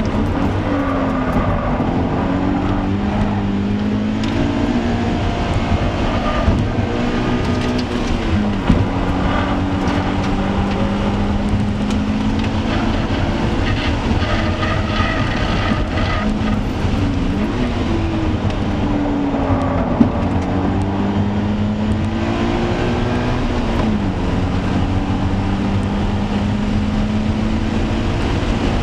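Scion FR-S's 2.0-litre flat-four engine driven hard on a road course, its pitch climbing through the revs and dropping sharply several times at gear changes and braking.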